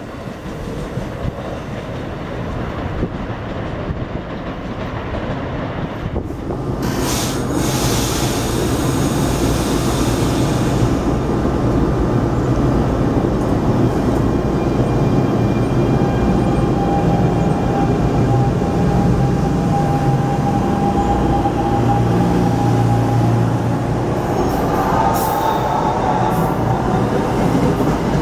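NJ Transit Arrow III electric multiple unit at a station platform, with a steady low electrical hum that grows louder as it gets moving. Near the end its traction motors whine, rising in pitch as it accelerates away. A few seconds of a departing Amtrak train fading out come before it.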